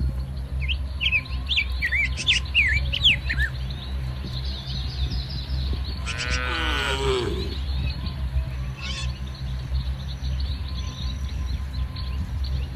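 Small birds chirping quickly for the first few seconds, then a cow mooing once about six seconds in, the call falling in pitch, over a steady low rumble.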